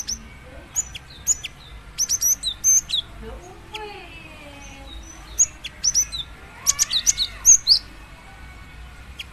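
Female cinereous tit (gelatik batu) calling with sharp, high, short chirps in quick clusters, mainly about two and seven seconds in. This is a female's call to attract a male.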